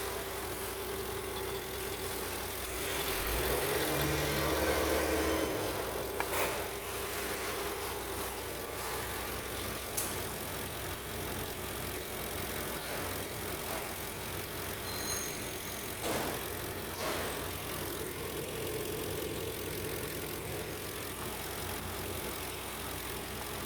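Mercedes-Benz M113 4.3-litre V8 idling steadily during an engine test, swelling a little about three to five seconds in, with a few faint clicks.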